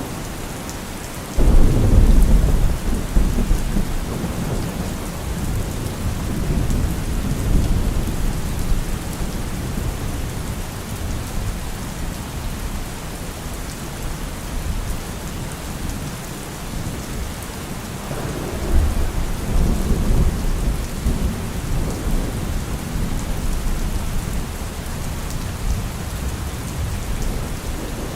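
Steady rain with thunder: a sudden clap about a second and a half in that rumbles on for several seconds, then a second rumble of thunder about two-thirds of the way through.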